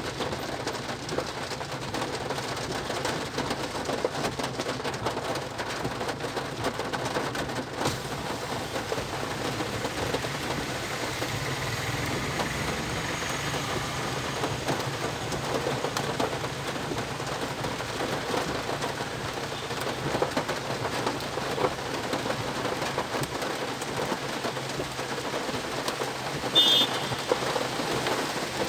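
Steady rain falling, a dense patter of drops. Near the end a brief high-pitched sound cuts in over it.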